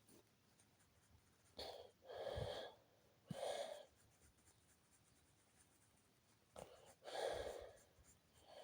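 A person breathing audibly close to the microphone: a few soft breaths, spaced out over a few seconds.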